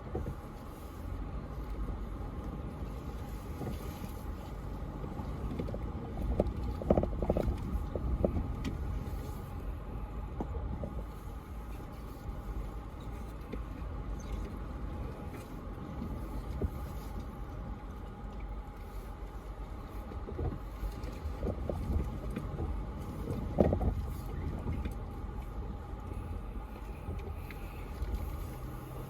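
Toyota 4Runner TRD Pro crawling slowly over a rocky trail: a steady low engine and drivetrain rumble, with scattered knocks and scrapes from the rocks. There is a cluster of louder knocks about a quarter of the way in and one more near the end.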